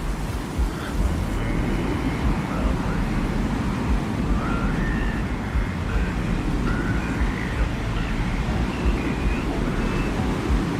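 Steady low rumbling desert-wind ambience, with faint short warbling tones scattered over it.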